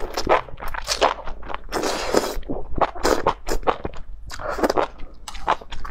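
Enoki mushrooms in spicy chili broth being slurped up and chewed with crunching bites, picked up close by a lapel microphone, with a longer wet slurp about two seconds in.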